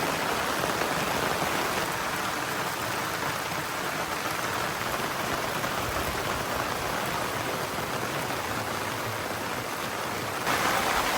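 Heavy rain pouring down steadily, with a sudden step up in loudness near the end.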